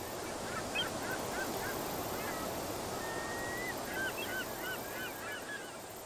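A bird calling in two quick runs of short, hooked whistled notes, about four a second, with a single longer held whistle between them, over a steady background hiss.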